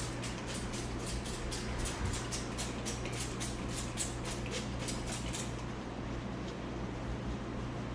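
Barber's scissors snipping hair in a quick, even run of about four or five snips a second, which stops about five and a half seconds in and gives way to a few scattered snips.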